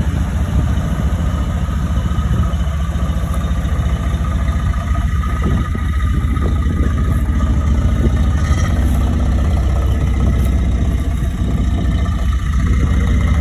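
1965 Chevrolet C-60 dump truck's 283 V8 idling steadily.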